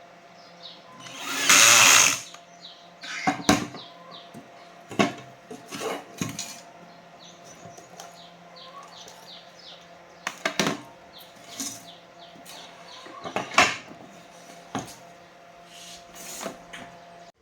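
Repair-bench sounds: a brief power-tool burst about a second and a half in, then scattered sharp clicks and knocks of tools and parts being handled, over a steady hum.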